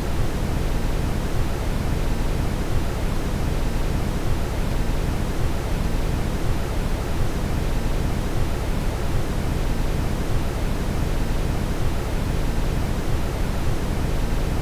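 Steady brown noise: an even, deep rushing hiss, strongest in the low end, that does not change.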